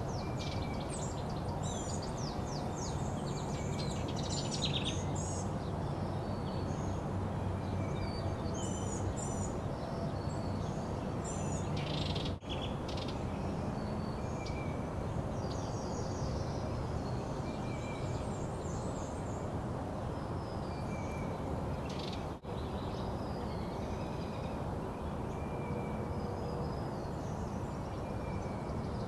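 Small songbirds singing and chirping in short phrases over a steady low background rumble, with two brief breaks where the sound drops out, about twelve and twenty-two seconds in.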